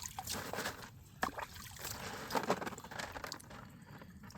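Creek water sloshing and trickling as a sifter of gravel is worked in it, with stones clicking against each other several times.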